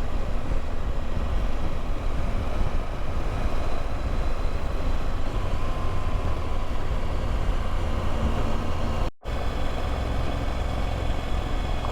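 Adventure motorcycle riding at speed: steady engine and wind noise. The sound cuts out for an instant about nine seconds in.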